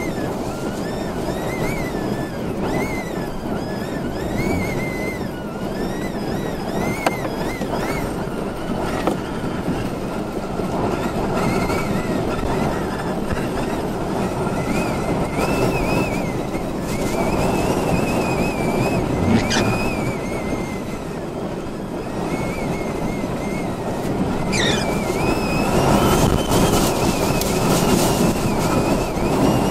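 Storm-force wind blowing hard in gusts, a steady rushing noise with a high, wavering whistle that rises and falls over it.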